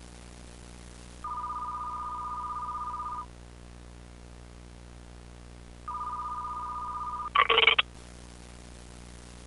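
Telephone ringing tone on a call being placed: a steady two-pitch tone held for about two seconds, a pause, then a second ring cut short after about a second and a half by a brief, loud crackling burst as the line connects.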